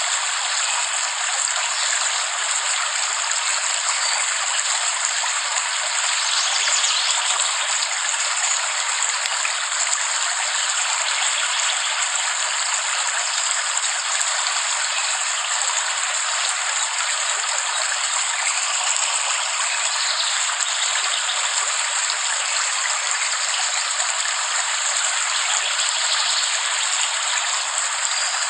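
Steady rainfall: an even, unbroken hiss of rain with no low rumble and no thunder.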